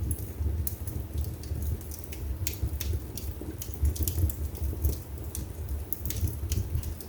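Wood fire burning in a fireplace: irregular sharp crackles and pops of the burning logs, several a second, over a low, steady rumble of the flames.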